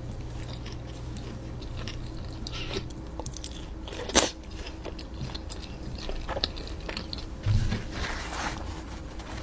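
Close-miked mouth sounds of eating: chewing and biting food, with scattered small clicks and crunches and one sharper click about four seconds in.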